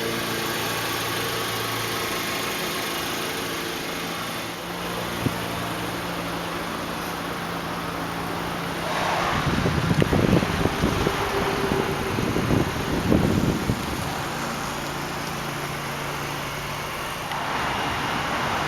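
Car engine idling with a steady hum, likely the Elantra Touring's 2.0-litre inline-four. For several seconds in the middle, a louder irregular rumble covers it.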